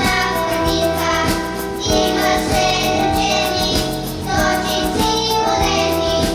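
Children's vocal ensemble singing a song in unison over instrumental accompaniment with a steady beat.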